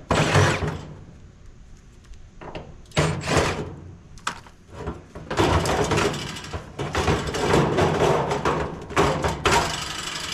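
Sheet-metal panels of a clothes dryer banging and clattering as the dryer is pried apart. There is a loud bang at the start and a couple of knocks about three seconds in, then rapid rattling and scraping of metal for most of the rest.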